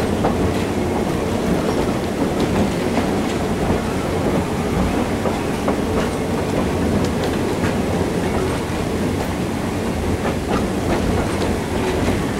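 Passenger car of a train hauled by a Shay geared steam locomotive, heard from on board as it rolls along the track: a steady rumble with irregular clicks from the wheels.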